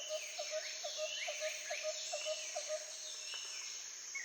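Rainforest ambience: several birds calling, with calls sliding down in pitch, over a steady high insect drone. A fast run of short, low repeated notes, about five a second, goes on until near three seconds in.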